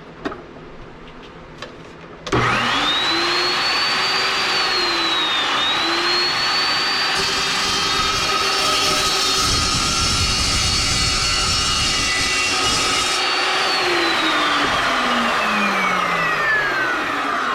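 Electric shop tool motor, likely used on the chromoly tube for the carburetor stand, switched on and spinning up to a high whine. It dips briefly under load, runs with a harsher hiss for several seconds in the middle, then coasts slowly down after being switched off. A couple of light knocks come before it starts.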